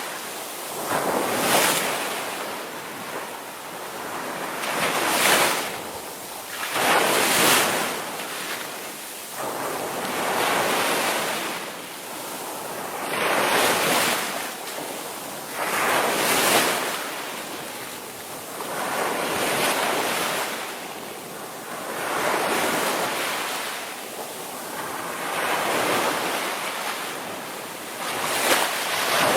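Ocean surf from the Indian Ocean: waves breaking and washing in, a rushing hiss that swells and fades about every three seconds.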